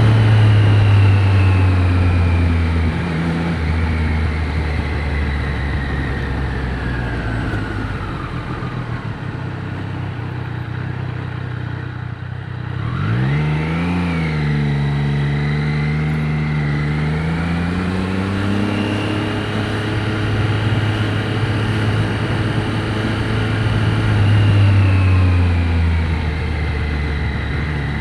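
Triumph Street Triple 765 RS three-cylinder engine heard from inside the rider's helmet: the engine note falls slowly as the bike slows, then revs up sharply about halfway through and settles into a steady pull.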